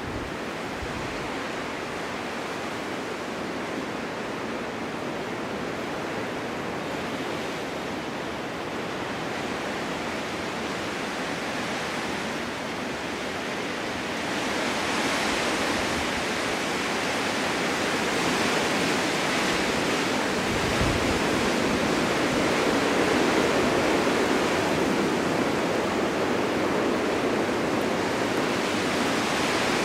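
Steady winter wind blowing snow, a continuous rushing with no distinct events, growing stronger about halfway through as a gust builds.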